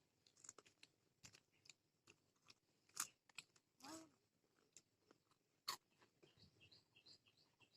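Salted cracker biscuits being bitten and chewed: faint scattered crunches, with louder bites about three seconds in and again near six seconds.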